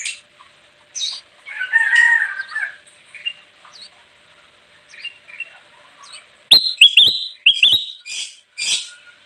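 Kutilang emas (a bulbul) calling: short chirps, a chattering phrase about two seconds in, then a quick run of loud, sharp notes from about six and a half seconds.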